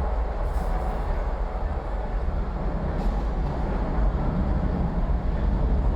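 Steady low rumble of a vehicle driving along a city street: road and traffic noise, with no sharp events.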